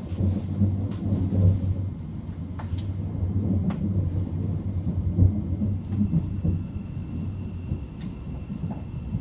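Rumble of a Class 700 Desiro City electric multiple unit running through a tunnel, heard inside the carriage, with a few sharp clicks from the wheels and track. A steady high whine comes in about six seconds in.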